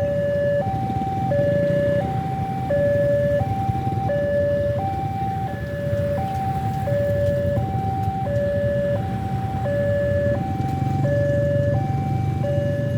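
Railway level-crossing warning alarm sounding a steady two-tone cycle, a lower and a higher tone alternating, each held about two-thirds of a second. It signals an approaching train, with the crossing barriers down or closing.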